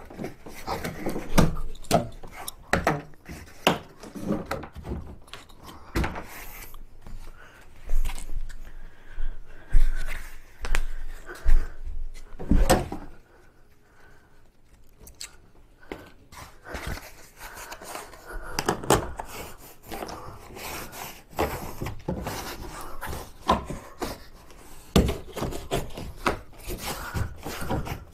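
Irregular knocks, thunks and rubbing of a Tucktec folding kayak's plastic hull and parts being handled, with a quieter spell about halfway through.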